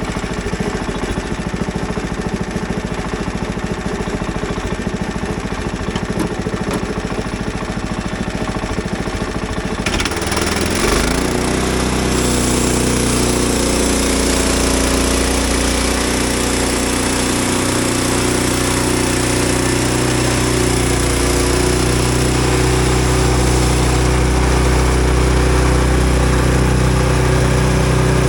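An engine idling with a fast pulsing rumble, then revved up about ten seconds in and held running steadily at a higher speed.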